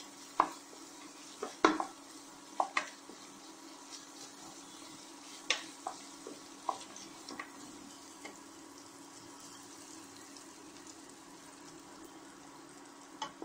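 Onions and garlic-ginger paste sizzling faintly in oil in a pressure cooker pan, stirred with a wooden spatula that scrapes and knocks against the pot a dozen or so times in the first half, then only the steady sizzle.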